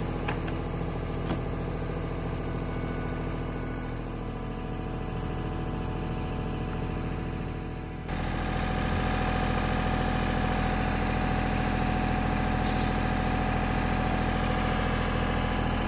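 An engine running steadily. It jumps up in level and pitch about eight seconds in, then holds steady again.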